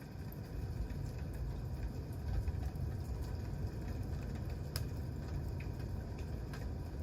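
Wood campfire burning, with scattered crackles and pops over a steady low rumble; the sharpest pop comes about five seconds in.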